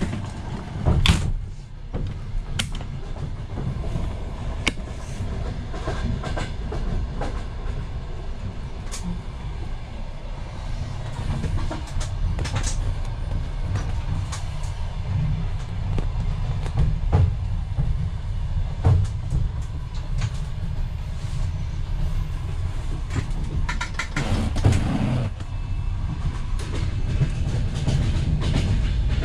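Running noise of a Ukrainian Railways sleeper coach heard from inside a compartment: a steady low rumble with scattered clicks and knocks from the wheels and the coach body.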